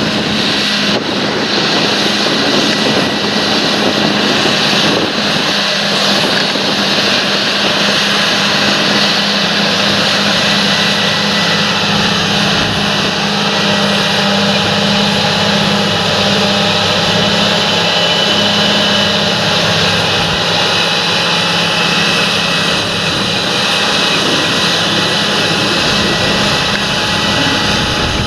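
Large John Deere tractor engine running steadily, with a constant hum and a steady high whine over it.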